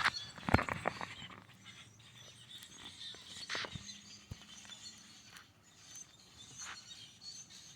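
Kayak paddle strokes: a few hard knocks of the paddle against the hull at first, then the paddle dipping and splashing in the water about every three seconds.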